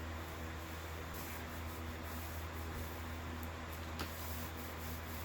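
A laminating roller rolling over resin-wetted chopped strand mat, a faint irregular squishing rub, compressing the fiberglass to work out air bubbles. Under it runs a steady low hum, and there is one sharp click about four seconds in.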